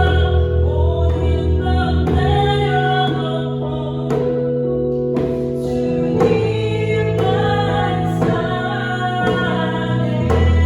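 A singer leading a Korean worship song over instrumental accompaniment with sustained low bass notes.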